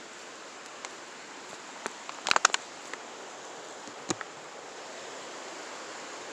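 Footsteps and handling noises on a forest hiking trail: scattered sharp snaps and clicks, with a quick cluster about two seconds in and another snap near four seconds, over a steady rushing background.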